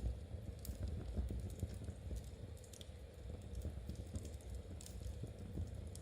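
Knitting needles clicking and tapping in a steady, irregular run as stitches are worked, with a fireplace crackling and popping now and then.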